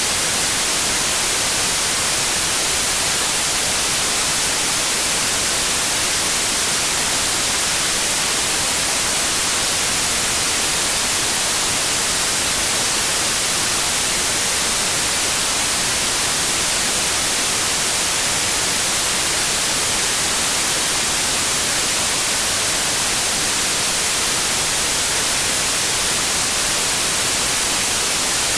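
Steady generated white noise: an even hiss, strongest in the high frequencies, with no change or break.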